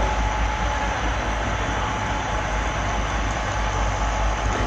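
Model railroad camera car rolling along the track, picked up by the GoPro riding on it: a steady rumble of wheels on rail with a constant thin whine.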